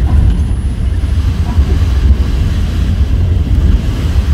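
Steady low rumble of a Caltrain gallery cab car running at speed, heard from inside the cab.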